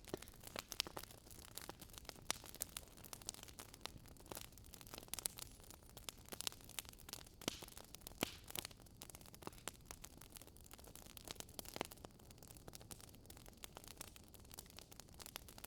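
Campfire burning: irregular sharp crackles and pops of burning wood over a soft steady hiss.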